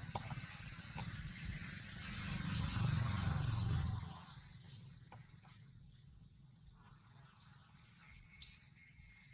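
Outdoor background noise: an uneven low rumble, like wind on the microphone, for the first four seconds and then dying down, under a thin steady high-pitched whine, with a single sharp click near the end.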